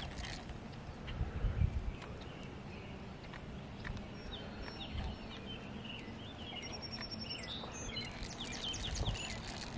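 Small birds chirping and calling repeatedly in short, quick notes, busiest near the end. A low rumble of handling or wind on the microphone comes briefly about a second in.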